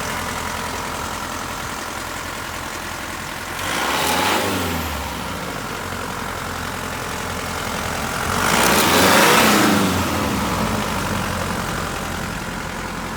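Mitsubishi Pajero's 3.2-litre four-cylinder turbo diesel idling, revved twice: briefly about four seconds in, then higher and longer around nine seconds, dropping back to idle each time.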